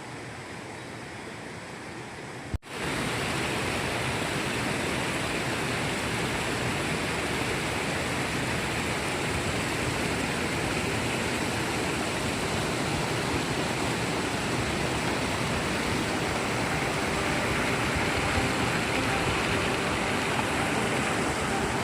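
Steady rushing of a mountain stream. About two and a half seconds in there is a sharp click, and the rush becomes clearly louder after it.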